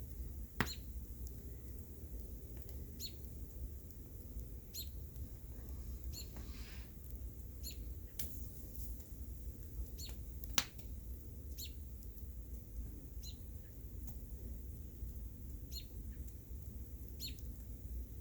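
Bonfire crackling: short sharp pops of burning wood every second or two, with two louder snaps, about half a second in and about ten seconds in, over a steady low rumble.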